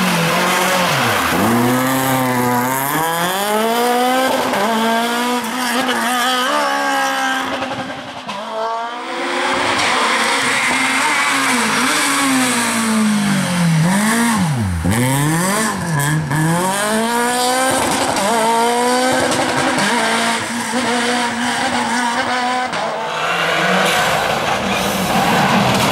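Rally car engines revving hard, the pitch climbing and dropping again and again through gear changes and lifts, with some tyre squeal. Near the end the engine gives way to a rush of tyre noise.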